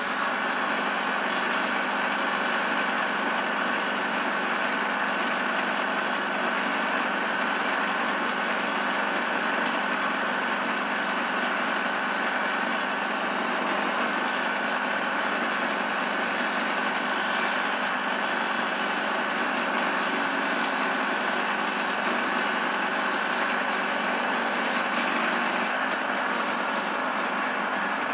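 Milling machine taking a continuous cut in metal, with hot chips flying. It runs steadily with a constant high whine.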